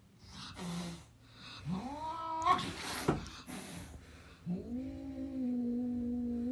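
A cat yowling: a short rising yowl about two seconds in, then a long, steady, drawn-out yowl from about four and a half seconds in. Short noisy bursts come between the calls.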